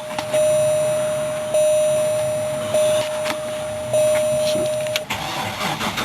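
Dashboard warning chime of a 2004 Chevrolet Avalanche sounding over and over, one tone about every second and a quarter, each struck and then fading, with the ignition switched on before a cold start. The chime stops about five seconds in, followed by a brief clatter of clicks.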